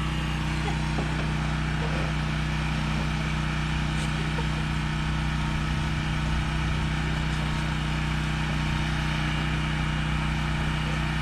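A vehicle engine idling steadily, a constant low hum with no revving.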